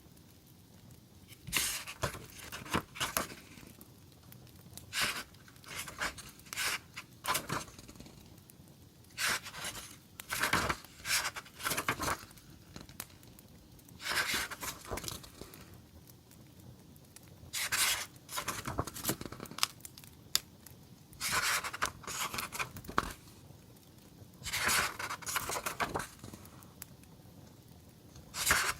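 Paper and sticker sheets being handled, rustling and tearing in repeated bursts a second or two long, with short pauses between them.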